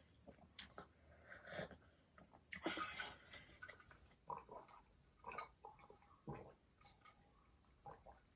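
A person chewing food, faint: soft wet mouth clicks and smacks, with a longer, louder noisy sound about three seconds in.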